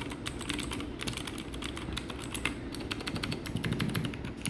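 Mechanical keyboard with blue (clicky) switches being typed on quickly, a dense stream of sharp clicky keystrokes.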